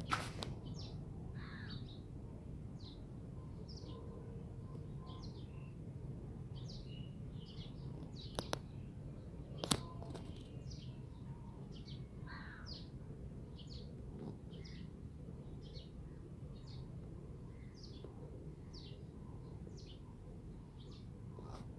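Faint bird chirps: short, high, falling notes repeating about once or twice a second, over a low steady hum, with a few sharp clicks near the start and about nine seconds in.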